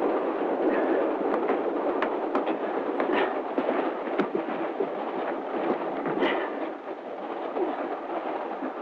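Steady rolling noise of a moving railway carriage, with scattered sharp knocks and clicks over it, heaviest in the first six seconds.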